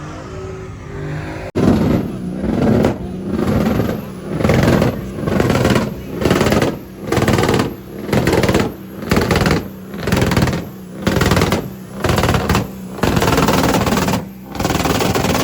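A truck engine revved over and over in a steady rhythm, about one rise and fall of the throttle a second, over a steady idle.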